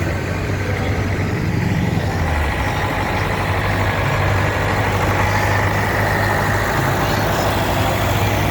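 Tractor engine running steadily with a low hum, a little stronger from about two seconds in.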